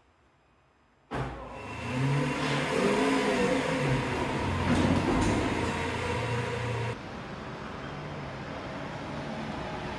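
Lamborghini Aventador's V12 engine comes in suddenly about a second in and revs up and down as the car pulls away. Near seven seconds it drops abruptly to a quieter, steady running sound.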